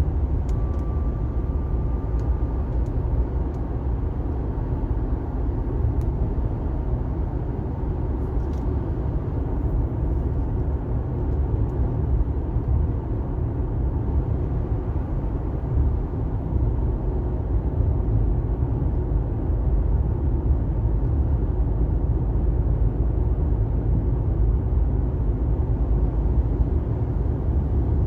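Car driving at highway speed on a rain-wet road: a steady low rumble of tyres and engine.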